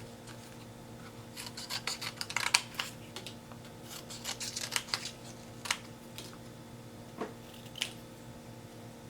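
Scissors snipping through paper to cut out small triangles: two quick runs of snips, then a few single snips spaced apart near the end.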